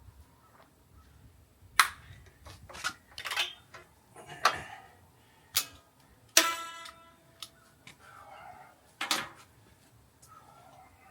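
A series of sharp metal clanks and knocks as metal parts or tools are handled and set down. About six seconds in, one louder strike rings on for about a second.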